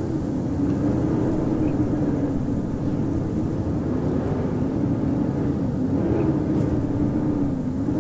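Howling winter wind: a steady rushing with a low moaning tone that wavers slowly up and down in pitch.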